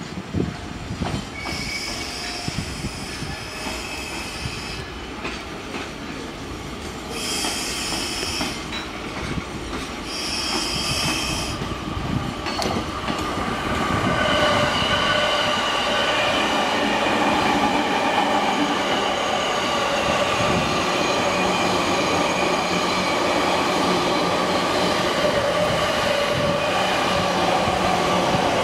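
Train wheels squealing in short, high bursts as rolling stock creeps through the freight yard. From about halfway a JR East commuter electric train passes close, louder and steady, with a continuous running rumble and several held whining tones from its traction motors.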